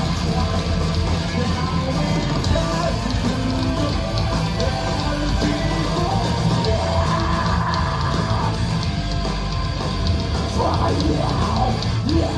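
Heavy metal band playing live, with distorted electric guitars, bass and a drum kit, and a voice shouting or singing over it in the second half.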